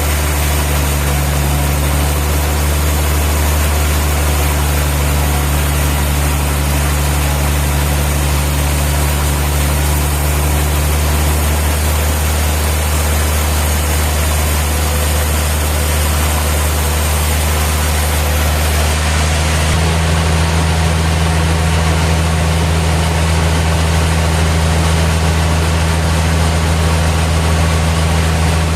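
Steady, even drone of a heavy engine running the sawmill machinery, with a low hum. About two-thirds of the way through, the hum steps slightly higher.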